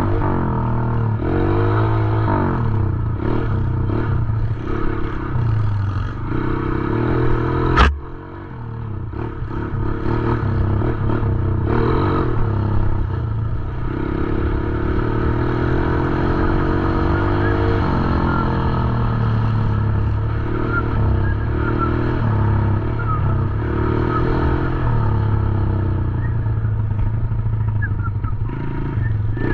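Small 110cc dirt bike engine running and revving, its pitch rising and falling as the throttle opens and closes, with one sharp knock about eight seconds in.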